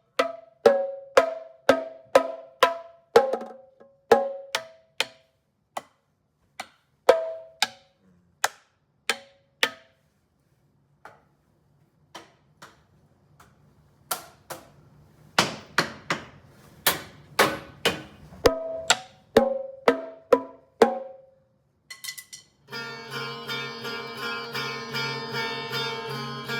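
Drums struck by hand in a loose, irregular rhythm; each hit ends in a short pitched ring. The playing thins out to scattered taps for a few seconds midway, then picks up again. Near the end a sustained chord from a plucked-string or keyboard sound comes in.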